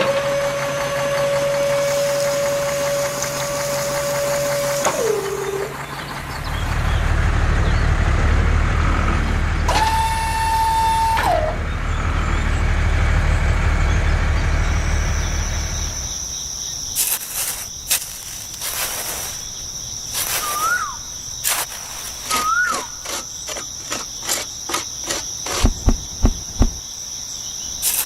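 A truck engine running, with two long steady horn blasts that each drop in pitch as they end. About sixteen seconds in the engine stops, and crickets chirp steadily over scattered clicks and knocks.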